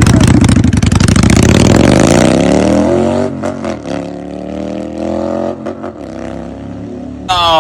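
Motorcycle engine revving hard, its pitch climbing over the first few seconds, then easing back to a quieter steady run about three seconds in, with a brief loud burst near the end.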